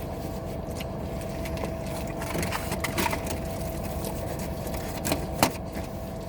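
Steady low hum of a parked car's cabin, with a faint steady tone and a few sharp clicks about halfway through and near the end.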